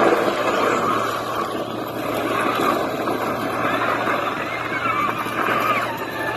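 Motorcycle engine running, a dense steady noise with a faint whine that rises and falls near the end.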